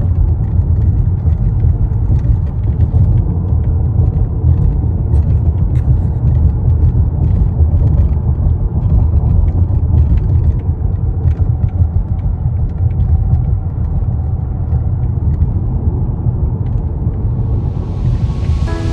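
Steady low rumble from a Tesla Model X Plaid, with scattered light clicks and ticks over it.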